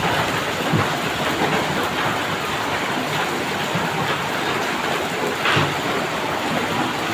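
Heavy rain pouring down steadily, with a couple of brief louder knocks, one just under a second in and one past the middle.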